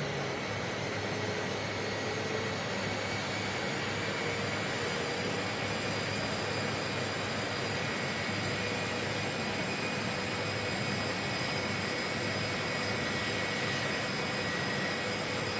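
Steady aircraft engine noise, an even rush with a few faint, steady high-pitched whines running through it.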